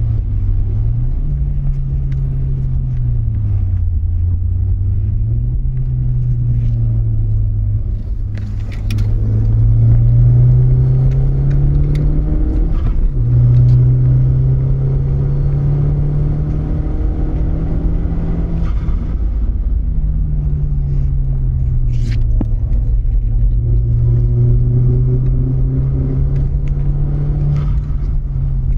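Mk1 Audi TT's engine being driven hard on a circuit lap: its note climbs steadily under acceleration, then drops off sharply several times at gear changes and lifts for corners, over a heavy low rumble of road and wind noise.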